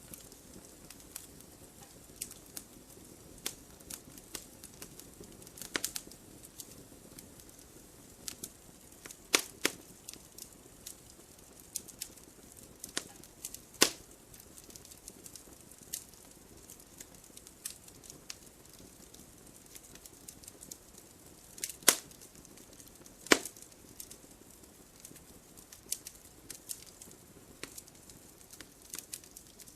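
Wood fire burning, with irregular crackling and scattered sharp pops over a faint low hiss; a few loud pops stand out, about a third of the way in, near the middle and twice about three quarters of the way through.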